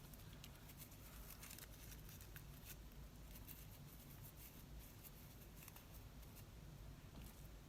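Near silence with faint, scattered clicks and rustles of paper and a small metal brad being handled and pushed through card.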